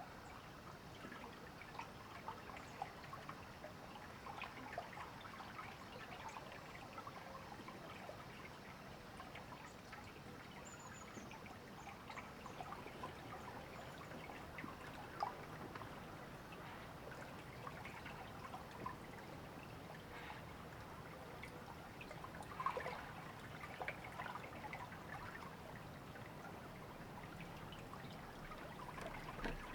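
Flowing river water trickling and babbling steadily, with a few brief louder splashes in the second half.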